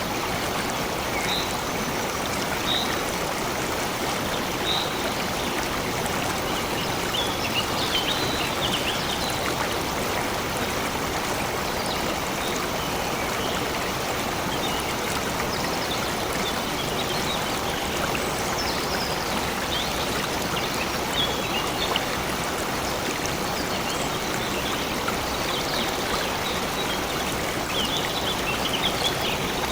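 Stream water flowing steadily, with small birds chirping briefly and sparsely above it now and then.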